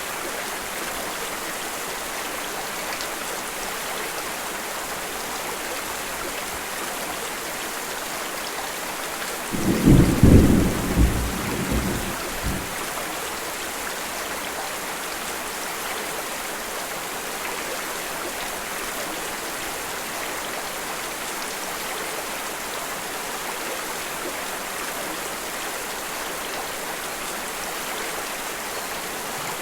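Steady rain with one loud, low clap of thunder about ten seconds in that rumbles on for about three seconds and dies away.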